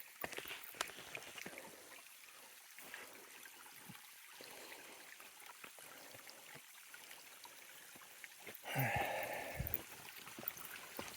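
Small spring water trickling, a faint steady flow with small ticks. Near the end a brief louder rustling noise rises over it.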